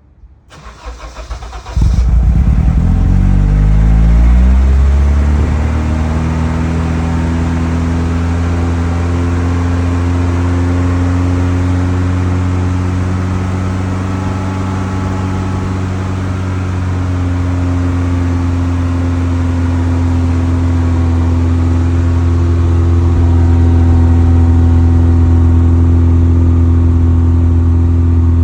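1989 BMW E30 M3's S14 four-cylinder engine cold-started: the starter cranks for a second or two, the engine catches, the revs flare, then settle within a few seconds into a steady idle.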